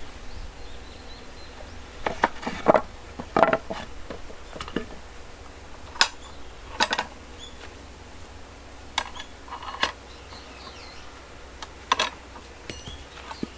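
Steel rebar clinking and clanking against metal as it is worked into a ring with a rebar bender: irregular sharp knocks with a short ring, some in quick pairs, every second or few.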